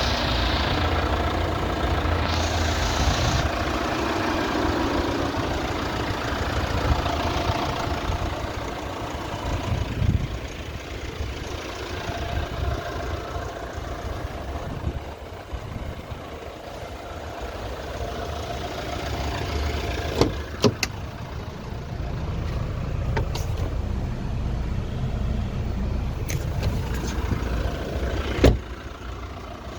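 Jeep Renegade Trailhawk's 2.0 16-valve turbo diesel engine idling steadily, with several sharp clicks in the latter part and one louder knock near the end.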